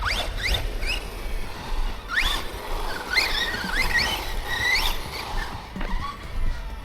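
Brushless electric motor of an Arrma Typhon RC buggy whining in a series of short bursts, each rising sharply in pitch as the throttle is applied.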